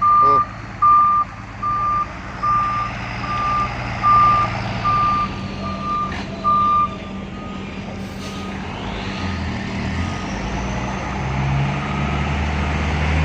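Truck's reversing alarm beeping at a steady pitch, about one beep every three-quarters of a second, over the low running of the truck's engine. The beeping stops about seven seconds in, and the engine grows louder after that.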